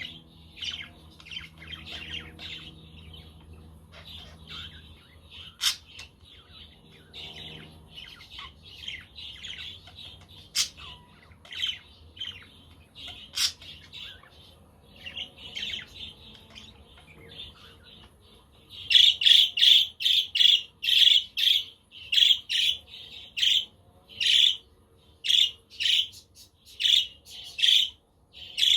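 A flock of budgerigars chirping and chattering continuously. About two-thirds of the way through, a louder call starts repeating steadily, about twice a second, over the chatter.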